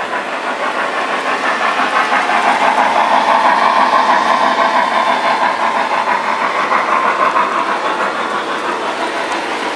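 A train running, heard as a steady rushing mechanical noise that grows louder toward the middle and then eases off.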